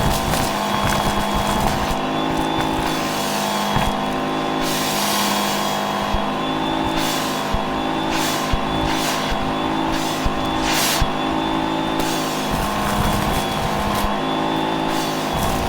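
Vacuum cleaner running with a steady motor whine whose pitch shifts slightly with the load, broken by several short rushes of air noise in the middle.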